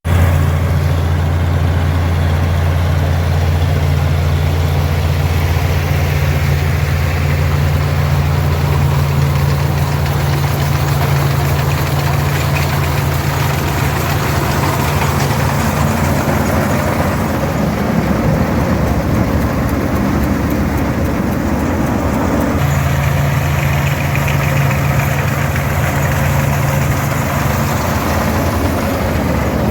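Farmall 460 diesel tractor's six-cylinder engine running steadily under load, mixed with the clatter of the International 82 pull-type combine harvesting. The steady low drone eases off and the mix shifts for several seconds past the middle, then returns.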